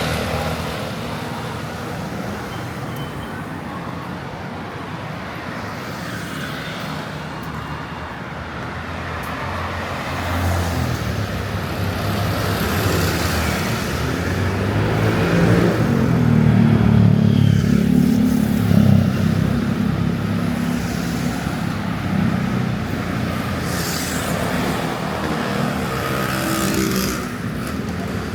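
Street traffic: motor vehicles running past on the road, with a steady hum and one passing loudest about two-thirds of the way through.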